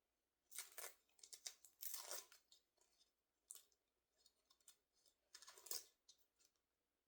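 Faint, irregular rustling and crinkling of doll packaging being handled, in several short bursts.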